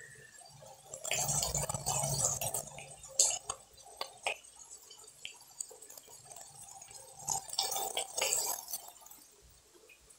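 Cabbage and potato curry frying in an aluminium kadai, a faint sizzle that comes and goes, with a few sharp clicks.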